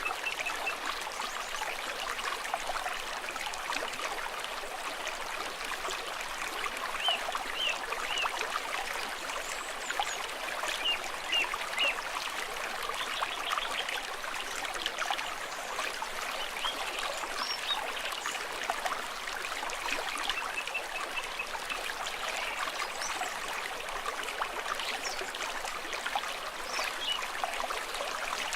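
A small stream trickling and babbling steadily over stones, with many small splashes and gurgles.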